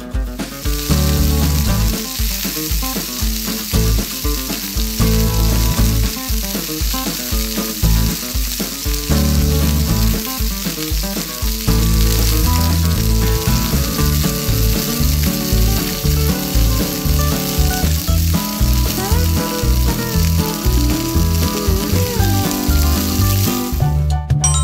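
Hot oil sizzling steadily as batter-and-noodle-coated skewers deep-fry in a small pan, with background music underneath. The sizzle stops abruptly near the end.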